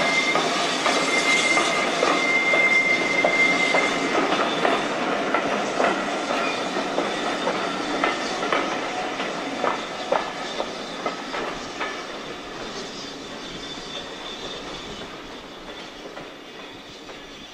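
A train of passenger coaches rolling past, its wheels clicking over rail joints and points. A thin wheel squeal rings through the first few seconds. The sound fades steadily as the train draws away.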